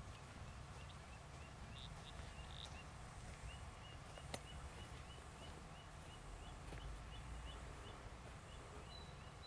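A bird repeats a short rising chirp about twice a second over faint outdoor background. A single sharp click comes about four seconds in: a golf club clipping the turf on a practice swing.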